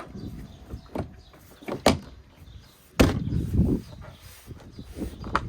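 Plastic door trim panel on a VW Passat door being knocked and pressed into place: a few sharp knocks about a second apart, then one loud thump about three seconds in.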